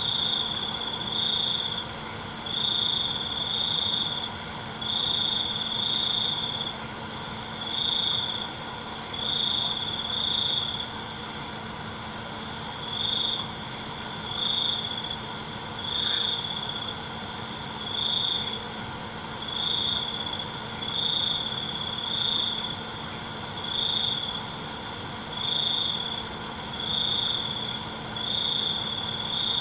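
Crickets chirping: one loud cricket sings in short bursts about every second and a half, over a steady high trill of other crickets and insects.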